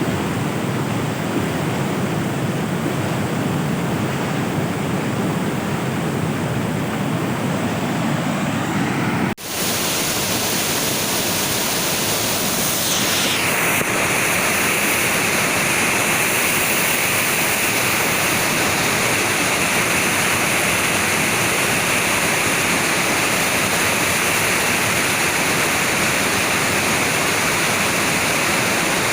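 Steady rushing of fast-flowing floodwater. About nine seconds in, the sound breaks off abruptly and gives way to a brighter, hissier rush.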